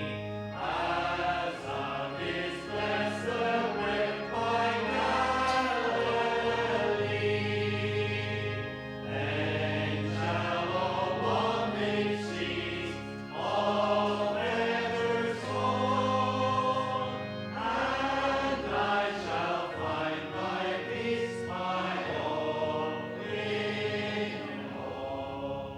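Congregation singing the closing lines of a hymn over instrumental accompaniment that holds long low notes, the sound thinning out near the end as the hymn finishes.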